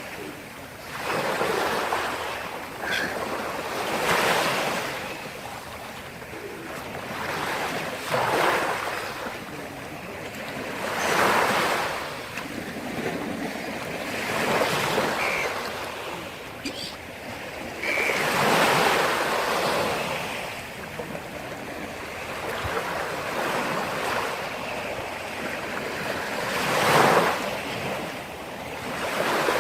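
Black Sea surf breaking on the shore: a steady wash of water that swells into a fresh breaking wave every three to four seconds.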